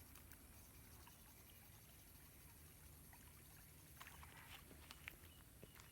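Near silence: faint outdoor background, with a few soft clicks in the second half.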